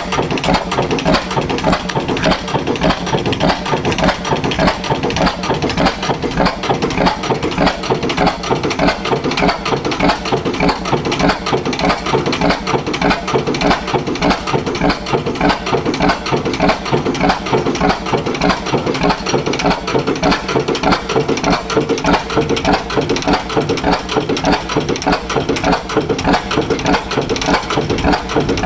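Reid 30 hp oil-field engine running at a steady speed, its firing strokes beating out an even, rapid rhythm.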